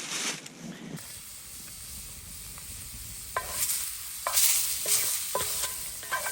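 Venison steaks sizzling over a campfire, a steady hiss, with several short ringing clinks from about halfway through.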